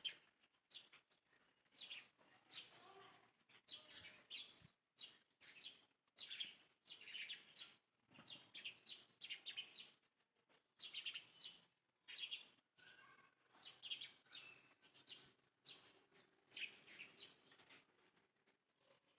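High-pitched chirping calls from a small animal, short squeaks repeated several a second in irregular runs with brief pauses between them.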